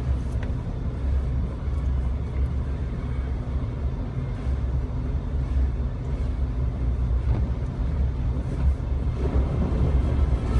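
Jeep Wrangler driving on a snowy road, a steady low engine and road rumble.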